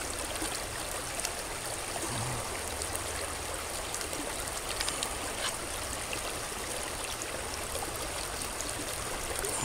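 Steady rush of stream water flowing, with a few faint ticks.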